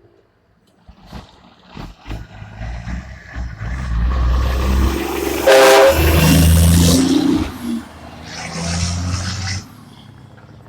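Heavy truck engine revving up, loudest about halfway through. A short horn blast sounds at its peak, and a second burst of engine noise follows near the end.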